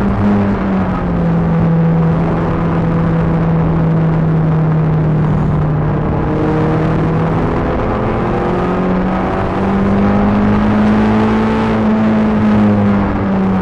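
Peugeot 306 GTi-6's four-cylinder engine pulling hard at high revs on track, heard from inside the cabin. Its note dips slightly at the start, holds, climbs again about two-thirds of the way through, then eases near the end.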